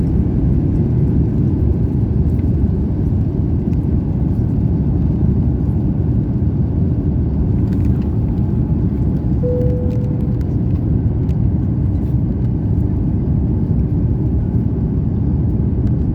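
Steady low rumble inside the cabin of an Airbus A350-900 airliner, from its engines and the airflow around it. A brief single tone sounds about ten seconds in.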